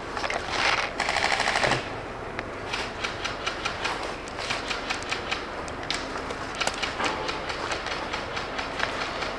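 Airsoft electric guns firing on full auto. A loud rapid burst of about a second and a half comes first, then lighter, scattered rattles of shots for the rest of the time.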